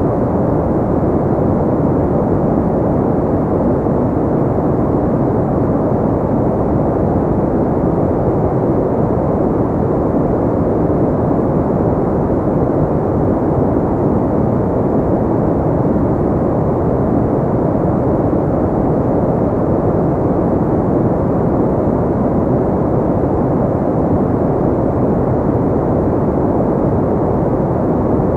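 Steady, unchanging ambient noise track: a deep, muffled rush with little hiss, like brown noise, with no breaks or separate sounds.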